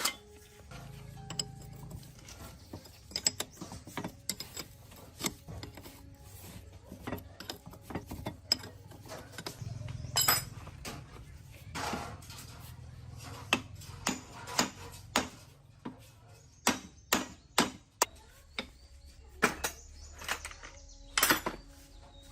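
Irregular sharp metallic clicks and knocks of hand tools on metal parts, some ringing briefly.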